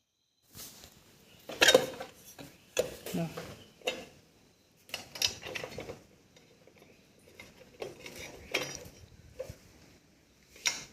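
Irregular metal clinks and clanks of a spinner handle and socket working on bolts, the tool knocking against the washing machine's metal parts as the bolts are tightened.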